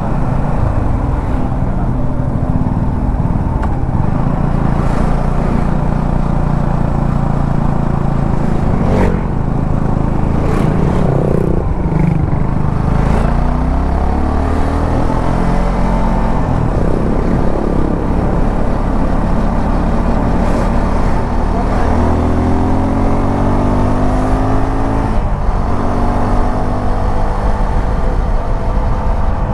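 Suzuki V-Strom 250 SX's single-cylinder engine running while under way, its pitch climbing and dropping several times as it is revved through the gears, over a steady low road and wind rumble.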